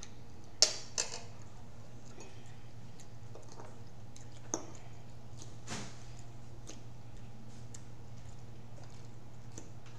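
Cutlery clinking and tapping on a plate during a meal: a sharp clink about half a second in, then a few softer taps, over a steady low hum.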